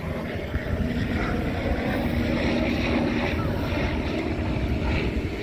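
Wind buffeting the microphone in a steady low rumble, with a faint steady engine hum underneath for the first few seconds.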